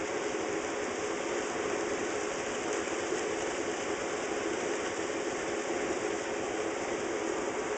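HO scale model trains running on the layout: a steady whir of small electric motors and gear drives, with wheels rolling on the rails.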